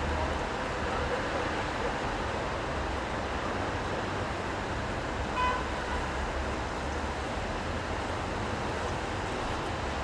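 Steady city street traffic noise: an even hiss over a low rumble, with a short high pitched beep about five and a half seconds in.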